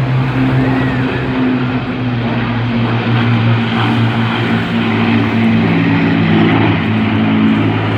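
Piston engines of Battle of Britain Memorial Flight warbirds flying by, a loud steady propeller drone of several tones that slowly drift in pitch.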